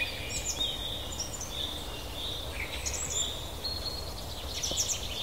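Small birds chirping and calling in short, repeated notes over a steady low background rumble.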